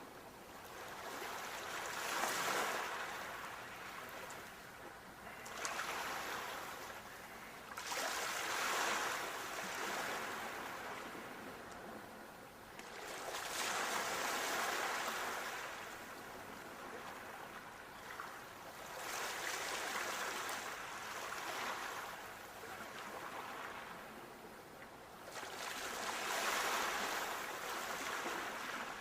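Sea waves breaking and washing up a beach: five swells of surf, each rising and falling away, about six seconds apart.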